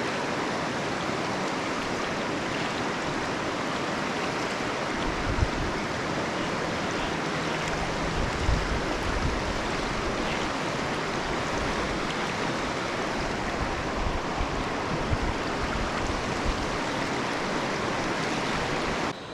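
River rapids rushing steadily in a fast current, with a couple of brief low thumps.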